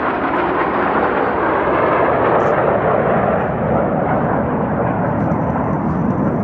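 Steady aircraft engine noise, a dense rumble that swells slightly over the first couple of seconds and then holds.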